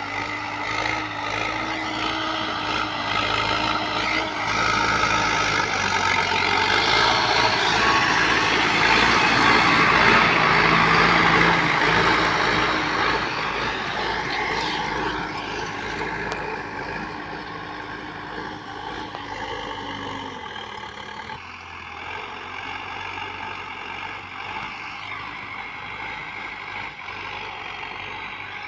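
Preet 6049 60 HP tractor's diesel engine running under load while pulling a seven-tine plough. It grows louder up to about ten seconds in, then fades away, with a brief drop in engine pitch about twenty seconds in.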